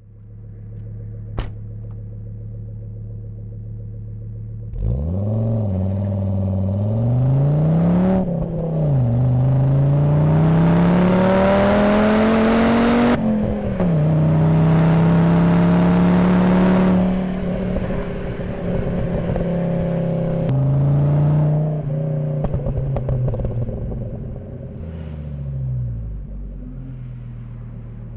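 Volvo 850 T5's 2.3-litre turbocharged inline-five through a Magnaflow exhaust, heard at the rear bumper: idling, then pulling away about five seconds in with the revs climbing through two gear changes, holding steady, and easing back down to idle near the end.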